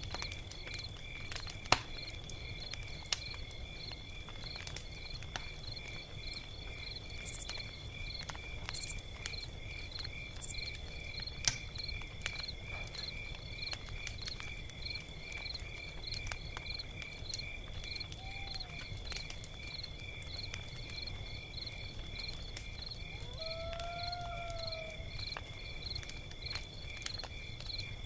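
A log fire crackling, with scattered sharp pops, the loudest about two seconds in and again about eleven seconds in. Under it runs a steady, pulsing high trill of insects, and two short calls sound in the second half.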